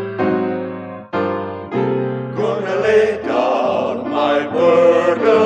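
Piano playing a gospel introduction in block chords, then a choir comes in singing about halfway through, voices holding long notes over the piano.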